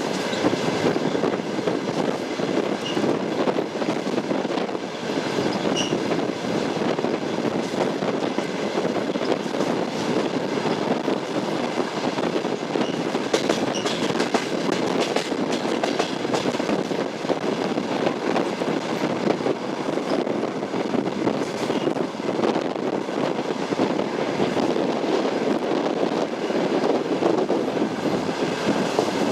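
A moving train's wheels clattering over the rails under a steady rumble, with a few sharper clicks about halfway through.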